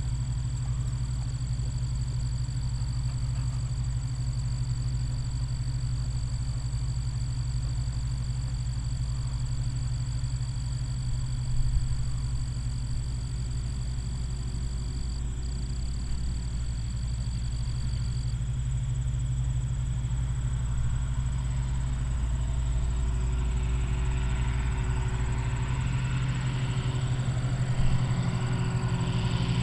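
Massey Ferguson combine running steadily while harvesting soybeans, a low engine rumble with its machinery noise growing louder over the last several seconds. Two brief knocks, one about twelve seconds in and one near the end.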